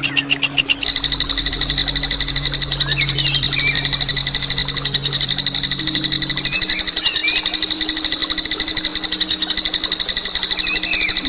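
A songbird's long, unbroken rolling trill: a fast, harsh rattle of rapid high notes, as used in bird-training recordings. A low steady hum runs underneath, with a few faint chirps from other birds.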